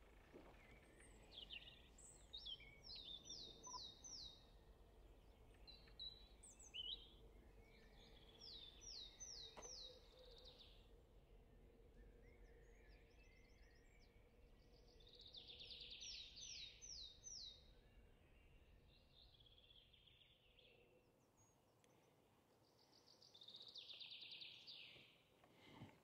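Faint woodland birdsong: a songbird sings four short phrases, each a quick run of four or five repeated high notes, about six or seven seconds apart, with a few shorter bird calls in between.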